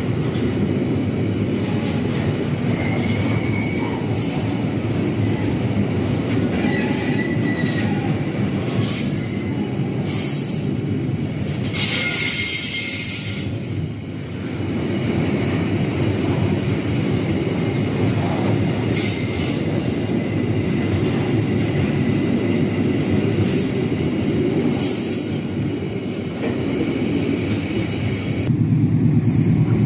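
Freight train of fuel tank wagons rolling past, a steady rumble of wheels on rail with high-pitched wheel squeals several times. The rumble grows louder near the end.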